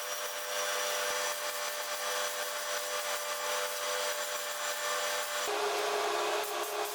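Electric power tool running steadily, abrading a surface, with a whine over a rasping hiss; its pitch steps down about five and a half seconds in.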